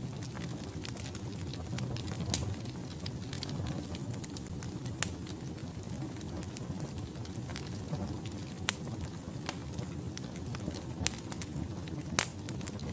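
Wood fire in a fireplace crackling steadily, with frequent small snaps and several louder pops over a low, even rush of burning logs.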